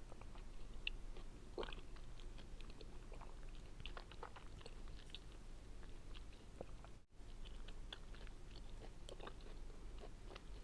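Close-miked chewing and biting of tangerine segments: many small clicks and crunches, with a brief cut to silence about seven seconds in.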